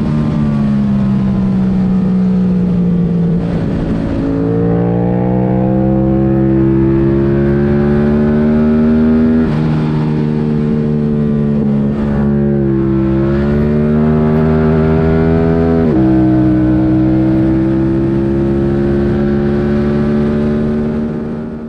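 Yamaha R7's 689 cc parallel-twin engine, breathing through an open-airbox intake and an MIVV Delta race exhaust, pulling hard under load on track. The pitch climbs steadily and drops sharply at gear changes, about halfway through and again near the three-quarter mark, and the sound fades out at the very end.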